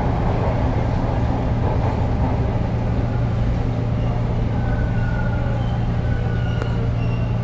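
Inside a TTC subway car, the train running into a station: a steady low hum and rumble, with faint thin high squeals from a little past halfway.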